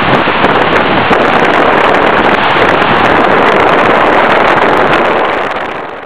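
Strong storm wind buffeting the microphone, a loud steady rush, with the sea beneath it; it fades out near the end.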